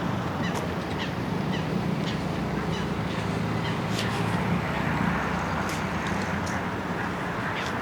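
Outdoor park ambience: a steady low hum of distant city traffic, with brief high chirps and ticks scattered over it, some of them likely birds.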